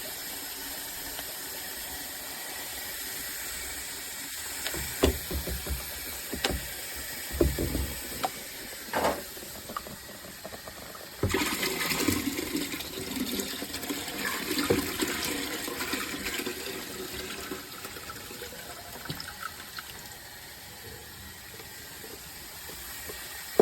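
Hoover Power Scrub Deluxe upright carpet cleaner running: a steady motor with water being sprayed and sucked up from the carpet. Several knocks come in the first half, and the sound gets louder and rougher about eleven seconds in, then eases off.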